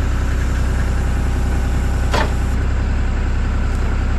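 John Deere 240 skid steer's diesel engine running steadily while the loader raises a load. A single sharp knock about two seconds in.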